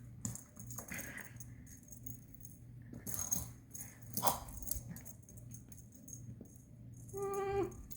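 Faint, intermittent light rattling and jingling as the pets play. A brief high whine comes about seven seconds in.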